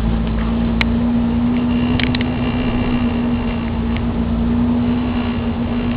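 1990 Volvo 740 GLE's 16-valve four-cylinder engine and road noise heard from inside the cabin while driving, a steady hum at an even pitch with low rumble. A few light clicks about a second and two seconds in.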